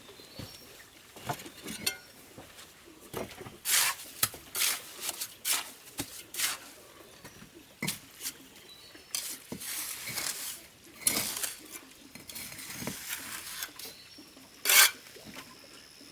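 A hand tool working in short, irregular scraping and clinking strokes, with the sharpest, loudest scrape near the end.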